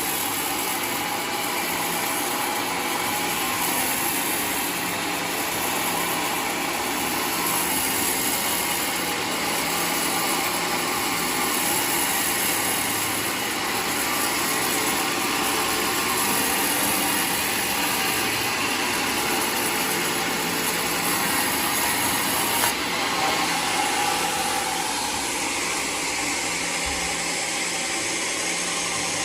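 Homemade sawmill running steadily, its blade sawing through a waru (sea hibiscus) log. There is a brief sharp click about 23 seconds in, after which the highest part of the sound drops away.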